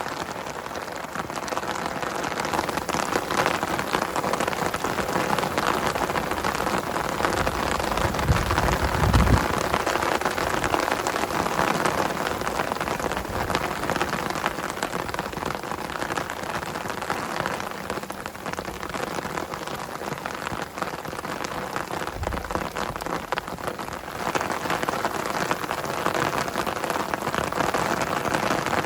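Heavy rain falling steadily, a dense patter of countless drops. A brief low rumble comes about eight seconds in, and a shorter one about twenty-two seconds in.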